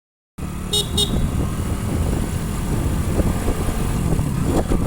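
Motorcycle on the move: steady engine rumble mixed with wind buffeting the microphone. Two short high-pitched beeps sound about a second in.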